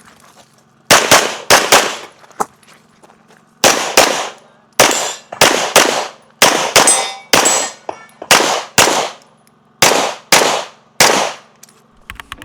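Rapid pistol fire during a practical-shooting stage run: about sixteen sharp shots, many in quick pairs a fraction of a second apart, with a pause of about a second and a half about two seconds in while the shooter moves or reloads.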